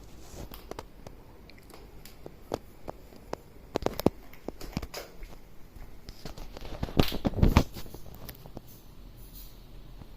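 Scattered clicks and knocks in a small room, with a louder cluster of thumps about seven seconds in.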